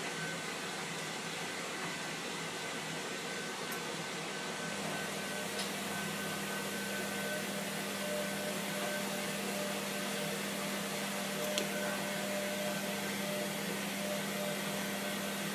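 Hotpoint Aquarius WMF720P washing machine running a heavily oversudsed wash: a steady hum under an even hiss.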